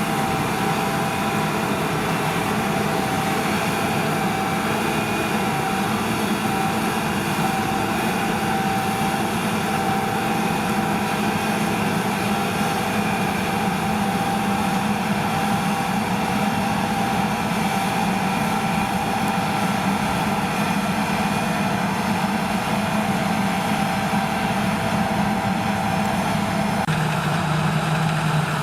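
Diesel engine of harvest machinery running steadily, with a low hum and several steady tones; the low hum drops in pitch near the end.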